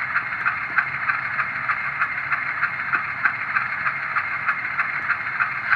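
Sound decoder of an HO-scale GE U25B model diesel locomotive playing its prime-mover idle through the model's small speaker: a steady, thin engine hum with regular pulses about four a second.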